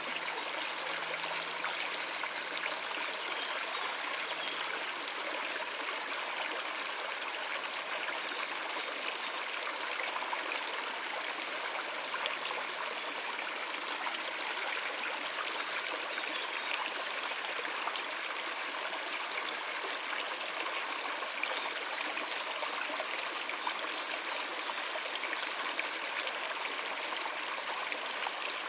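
River water running steadily over rocks: a continuous, even rushing and babbling of a shallow stream.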